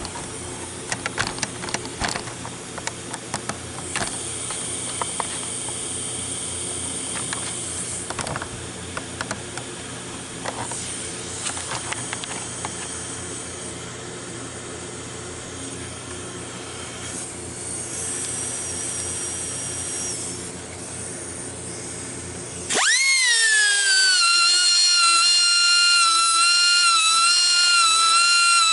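Band sawmill blade being sharpened with an air tool: a steady machine hum with scattered clicks and stretches of hissing. After about twenty seconds it cuts off abruptly and music with long held notes takes over.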